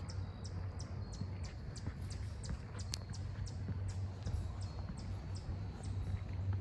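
Small bird chirping, a short high chirp repeated about three times a second, over a low steady rumble.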